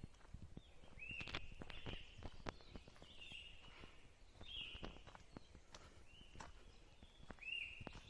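A bird calling again and again, each call short with a quick rising start, about five times, over scattered clicks and a low rumble.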